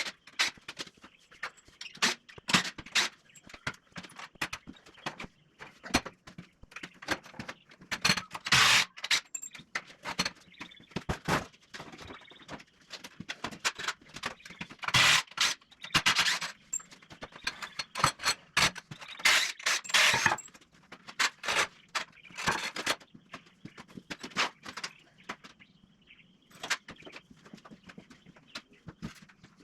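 Irregular knocks, clinks and scrapes of hand work on the wooden door frame of a chicken tractor as it is taken apart, with several louder scrapes lasting about a second each.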